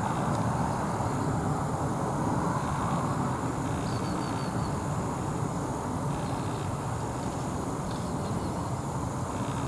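Steady, even rumble of a Boeing 777-200 jet airliner cruising high overhead. A short run of faint bird chirps comes about four seconds in, and another chirp about eight seconds in.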